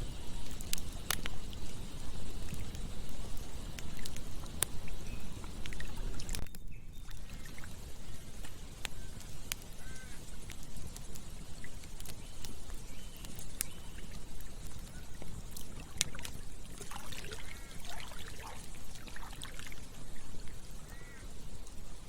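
Campfire crackling with sharp pops over a steady rush of flowing water. The sound cuts out for a moment about six seconds in, and a few short, high calls come near the end.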